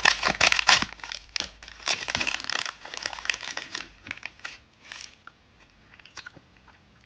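Candy wrapper crinkling as it is handled, dense for about three seconds, then thinning to a few scattered crackles.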